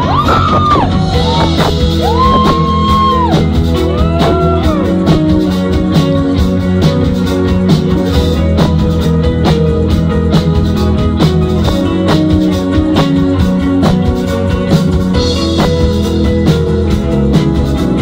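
Rock band music with a steady drum beat, bass and guitar. A high, sliding melodic line rises and falls over the first five seconds or so.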